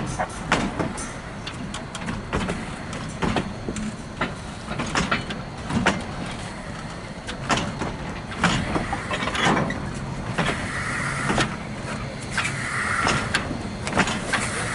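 Narrow-gauge train rolling slowly past behind a K-36 steam locomotive on the curved wye track: wheels and couplers give irregular clanks and knocks, and from about ten seconds in there are short spells of squealing, like wheel flanges on the curve.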